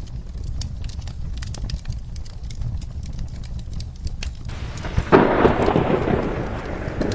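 Wood fire crackling with sharp pops over a low rumble; about five seconds in, a loud crack of thunder breaks and heavy rain sets in.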